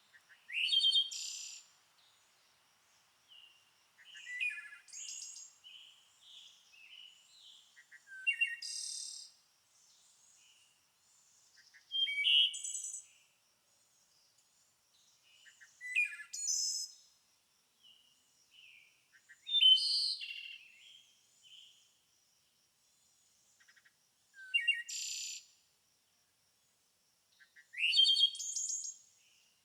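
A songbird singing in short, high, loud phrases, about eight of them roughly every four seconds, with softer chirps in between.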